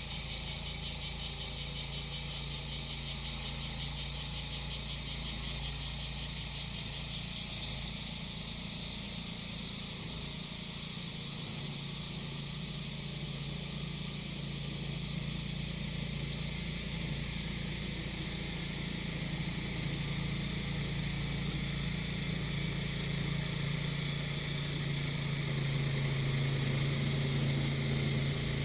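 Cicadas calling in a rapid pulsing high chorus that stops pulsing about seven seconds in and goes on as a steady high buzz, over the steady hum of a grass-cutting machine's small engine, which grows louder near the end.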